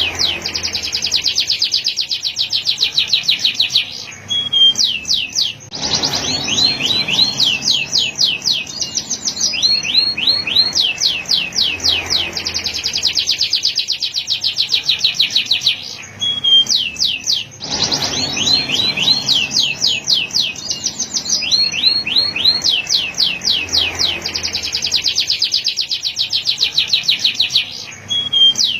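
Male canary singing: long rapid trills of high repeated notes, phrase after phrase, broken by short pauses twice.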